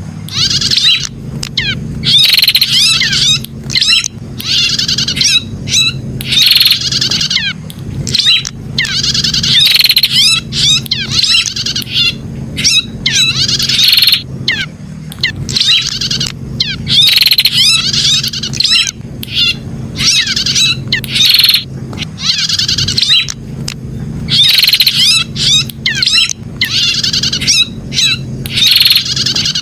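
Prenjak (prinia) song: repeated bursts of fast, high-pitched chirps and trills, each about a second long with short pauses between them. A steady low hum runs underneath.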